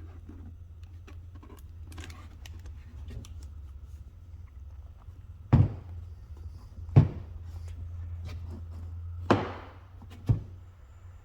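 Four sharp knocks, a second or two apart, over a steady low hum and faint small clicks.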